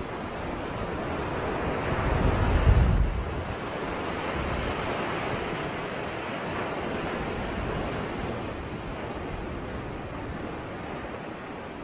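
Sea waves breaking and washing on the shore in a steady rush of surf, with a louder low rumble about two to three seconds in.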